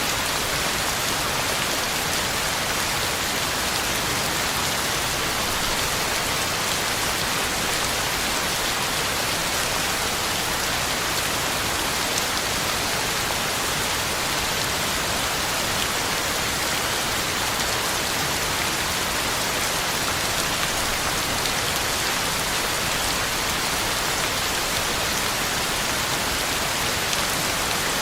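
Heavy rain falling steadily, a dense even hiss of drops on the ground and leaves with no thunder or breaks.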